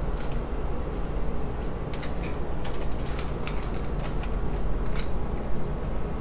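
A spoon stirring frozen steamed broccoli into a thick cream-of-mushroom and cream-of-chicken soup mixture, giving scattered clicks and scrapes over a steady low hum.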